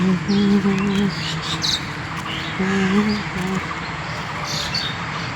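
Several birds chirping and twittering in short high calls, with a low voice sounding twice in the first part.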